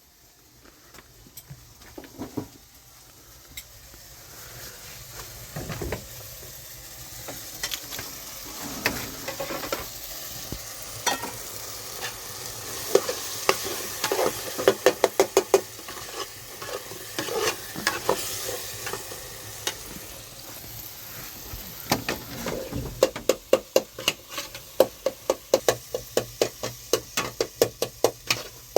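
Food sizzling in a pan while it is stirred. A spoon scrapes and knocks against the pan in quick runs of strokes, about five a second, in the middle and again near the end.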